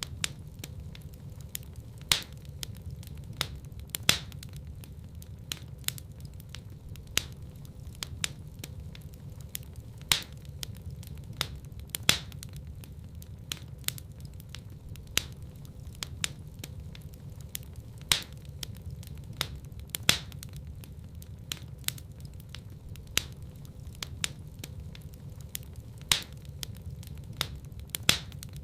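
Wood fire crackling in a fireplace: a steady low rumble of burning with sharp snaps and pops several times a second, and louder pops about every two seconds.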